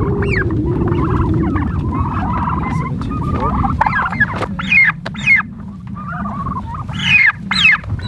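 Turkeys calling in a string of short yelps and squawks that sweep up and down in pitch, loudest about five and seven seconds in, over a steady low rumble.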